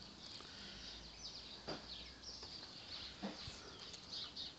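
Small birds chirping and twittering, many short high curving notes, with a few faint clicks.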